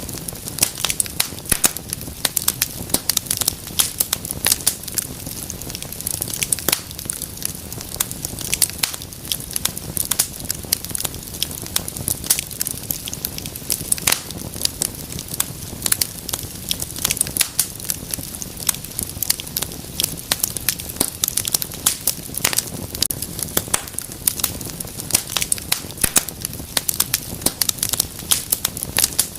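Wood fire crackling in a fireplace: many sharp, irregular pops and snaps over a low steady rumble of flame.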